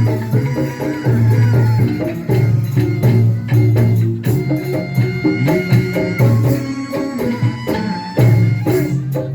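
Instrumental passage of a live folk-pop band: a steady low bass under melodic instruments, with shaker and tambourine-like hand percussion keeping the beat.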